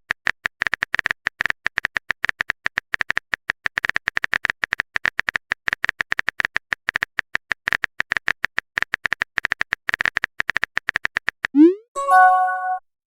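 Rapid clicking of a keyboard typing sound effect, several clicks a second. Near the end it stops for a short rising swoosh and a ringing chime, like a message-sent alert.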